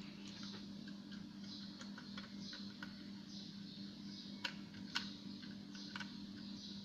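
Scattered light clicks and ticks, two sharper ones about four and a half and five seconds in, with short scratchy rustles between them over a steady low hum.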